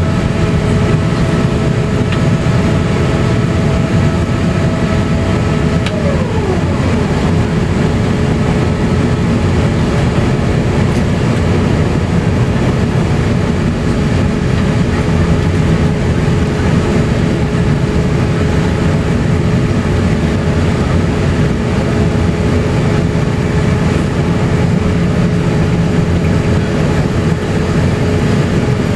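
Steady cabin rumble of the Airbus A350-900 taxiing on its Rolls-Royce Trent XWB engines, with a constant whine over it. About six seconds in, a higher whine slides down in pitch and fades out.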